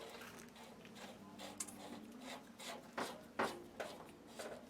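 Garden hose coupling being handled and threaded onto a water heater's drain valve: a string of faint, irregular scrapes and clicks, the sharpest about three seconds in.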